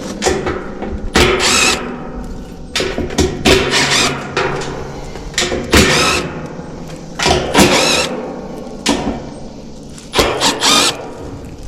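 Power drill spinning out the screws that hold the top panel of an air-conditioner condenser unit, in about a dozen short whirring bursts with brief pauses between them.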